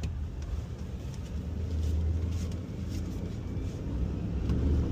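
Engine of a small Ford F-550 rear-loader garbage truck running while the truck drives, a steady low rumble that swells a little about two seconds in and again near the end.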